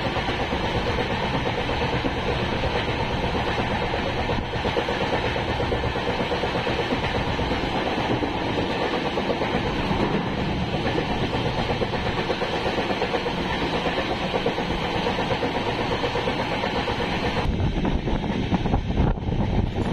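Express passenger train running at speed, heard from on board: a steady rumble of the coaches rolling on the rails. Near the end the sound turns deeper and the hiss drops away.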